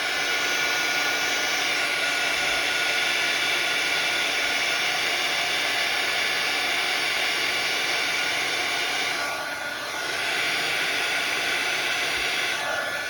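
Craft heat tool blowing hot air steadily with a fan whine over the hiss, drying freshly stamped ink. The noise dips briefly about two-thirds of the way through, then comes back up.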